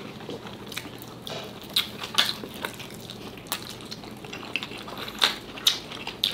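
Two people chewing food close to the microphone: mouth sounds with small, irregular clicks and smacks.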